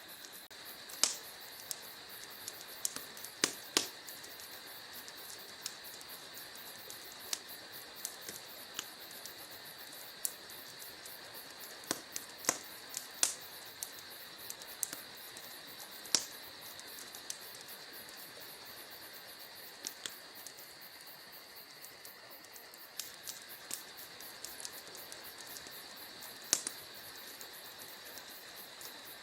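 Wood fire in a fireplace crackling: irregular sharp pops, a few of them louder, over a steady high hiss.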